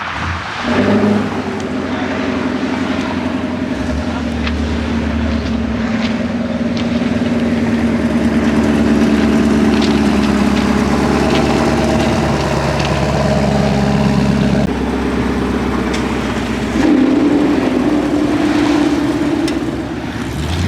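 Car engines running at idle: a steady drone of several low tones, which shifts about a second in and again around 15 and 17 seconds in.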